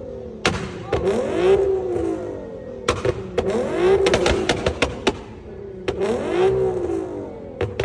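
A car engine being revved hard three times, each rev rising and falling in pitch over about two seconds, with sharp cracks and pops from the exhaust as the revs drop.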